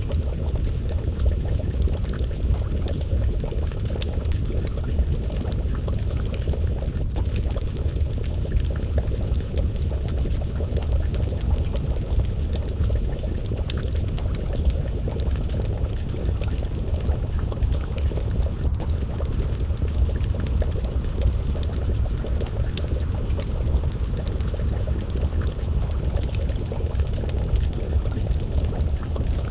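Wood fire crackling, with frequent small pops and clicks over a steady low rumble.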